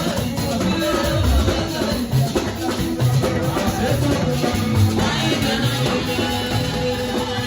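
Gospel church music, with a shaker rattling along to the beat and voices singing.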